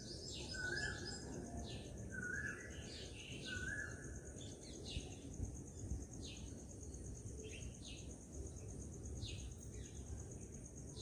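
Faint outdoor birdsong: many short, quick chirps throughout, and in the first few seconds a repeated short note about once a second. A steady high trill runs underneath.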